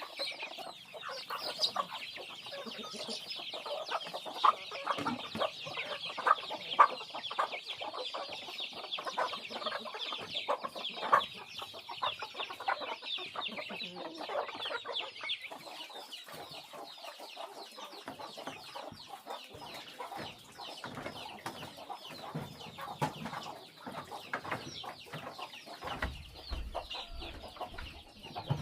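Flock of chickens clucking and calling continuously while feeding, a dense high chatter of many birds at once with louder single clucks breaking through.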